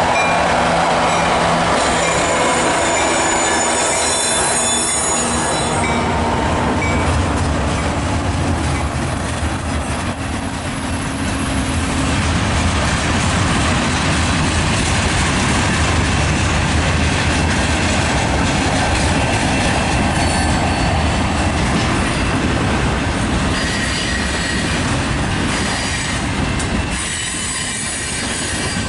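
Mixed manifest freight train rolling past close by, a steady loud rumble of wheels on rail, with thin high wheel squeal in the first few seconds.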